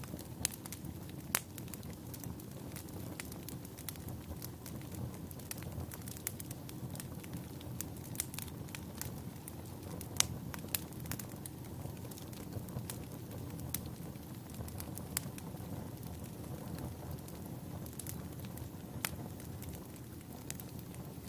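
Wood logs burning in a fireplace: a steady low rumble of flame with frequent irregular sharp crackles and pops.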